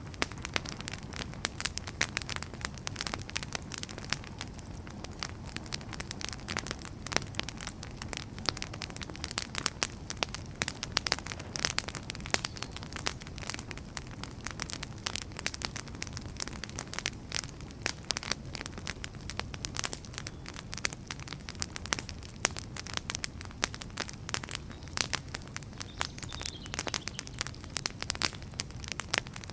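Wood fire burning, with dense, irregular crackles and pops from the logs over a steady low rumble of the flames.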